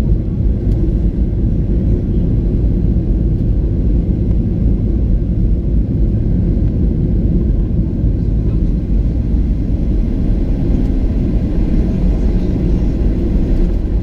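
Steady, loud low rumble of a Boeing 737-800 heard from inside the economy cabin, with no separate events standing out.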